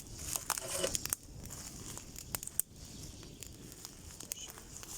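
Wood campfire crackling, with sharp irregular pops, and a brief rustle about half a second in.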